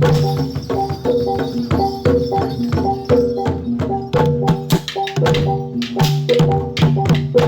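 Javanese gamelan music accompanying jathilan: sharp drum strokes over repeating struck metal tones in a fast, steady beat.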